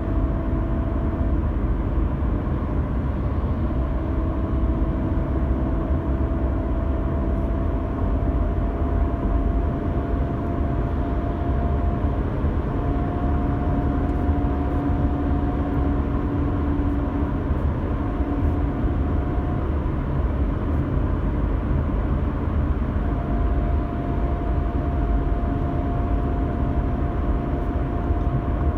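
A 2016 Audi A4 B9 2.0 TDI with a manual gearbox cruising at motorway speed, with a steady high whine over the road and engine noise. The whine drops out and comes back several times. It appears only on light throttle in sixth gear between 115 and 135 km/h and stops at once when the driver lifts off the throttle.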